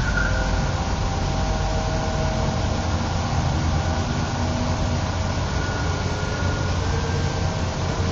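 The electric motors and propellers of a twin-motor RC airplane whining in flight, with thin tones that drift slightly in pitch, over a steady low rumble.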